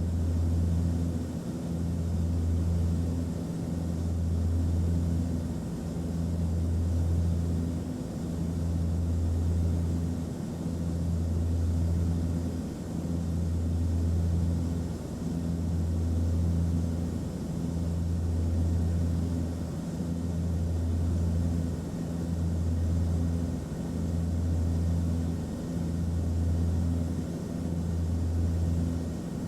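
Airliner cabin noise: a steady low engine drone that swells and dips in an even slow beat about every two seconds, over a faint hiss of rushing air.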